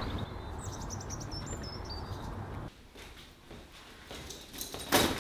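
A small bird chirping a few short high notes over a steady outdoor hush. About two and a half seconds in the hush cuts off to quiet room tone, and a single thud comes near the end.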